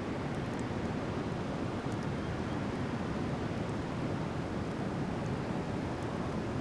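Driftwood fire burning, with a few faint sharp crackles over a steady rushing noise.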